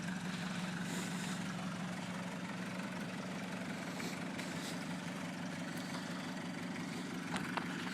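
Truck engine idling steadily at an even pitch.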